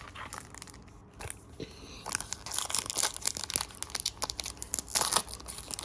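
Foil wrapper of a trading-card pack crinkling and being torn open: a few faint clicks, then a dense run of sharp crackles from about two seconds in.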